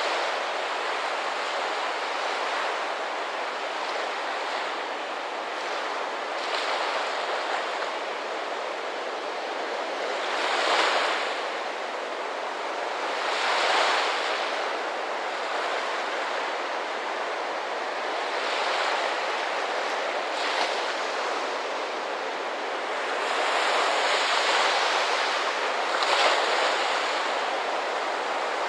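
Ocean surf washing steadily onto a shore, with a wave breaking louder every few seconds.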